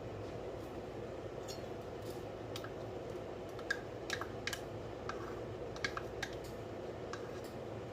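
About a dozen light, irregular clicks and taps of kitchen utensils and containers, over a steady low background hum.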